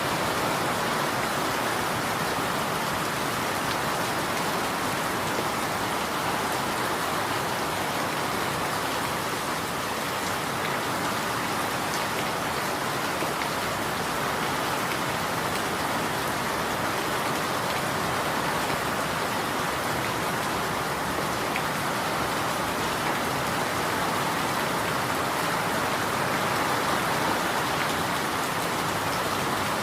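Steady rainfall, an even hiss of rain with fine drop patter on a surface.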